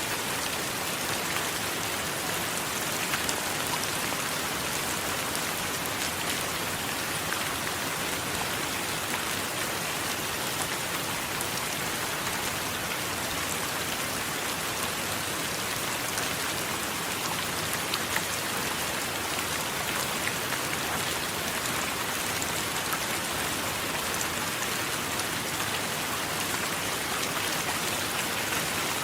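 Steady heavy rain falling, an even hiss with scattered sharp ticks of single drops striking a surface.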